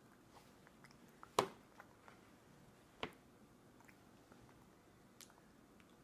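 A toddler eating soft fruit with her fingers: faint wet chewing and mouth sounds with scattered small clicks. Two sharper clicks stand out, the louder about a second and a half in and another about three seconds in.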